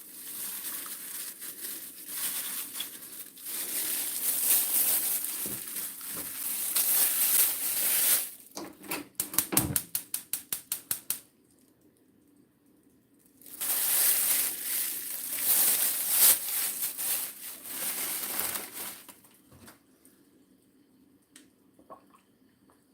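Kitchen cooking noise: two stretches of rustling, scraping noise, with a quick even run of about a dozen clicks between them.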